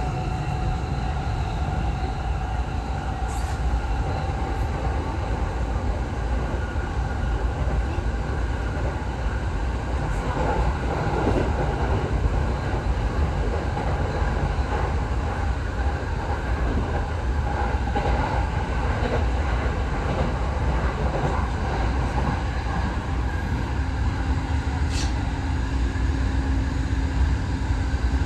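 Tokyo Waterfront Area Rapid Transit 70-000 series electric train running at speed, heard from inside: a steady low rumble of wheels on rail with a faint even whine and a few light ticks.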